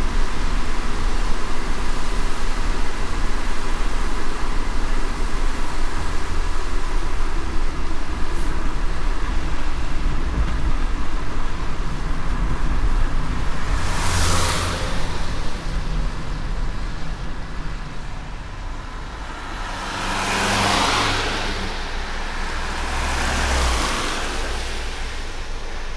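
Car driving in light rain: steady tyre and road noise over a low rumble. It eases off in the second half, while a whoosh rises and fades a little past halfway and twice more near the end.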